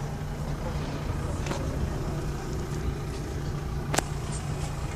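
A car engine idling steadily with a low, even hum, and a sharp click about four seconds in.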